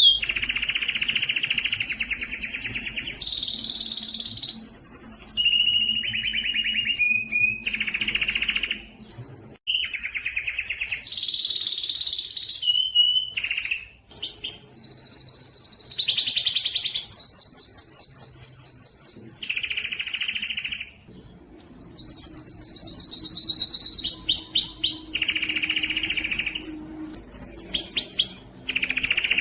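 Domestic canary singing a long song of rapid trills, one phrase after another, with the pitch and speed changing every second or two. The song breaks off briefly three or four times.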